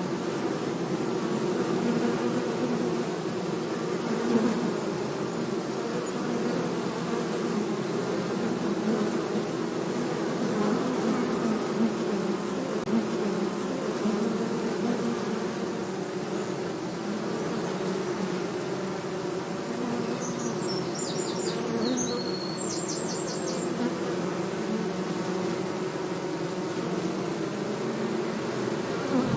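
Many honey bees buzzing together in a dense, steady hum, as a colony is disturbed while being moved from a termite-mound nest into a hive box. A few short high chirps come in about two-thirds of the way through.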